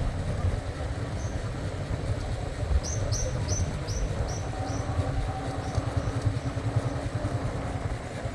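A steady low rumble, with a run of about eight quick high chirps a few seconds in, like a small bird calling.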